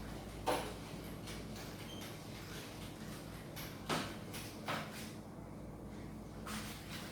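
Four short knocks and clunks of household things being handled, the loudest about half a second in and about four seconds in, over a low steady room hum.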